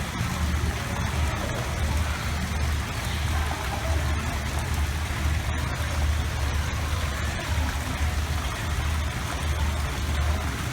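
Steady rush of running water, with an uneven low rumble underneath.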